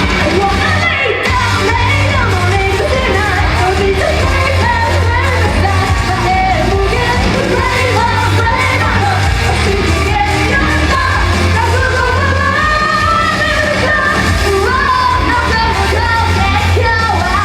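Idol pop song performed live through a venue sound system: singing over a loud backing track with a strong, steady bass.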